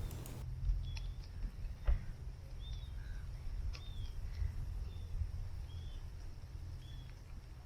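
Small birds chirping outdoors, short high calls repeated about once a second, over a steady low rumble; two brief knocks sound about one and two seconds in.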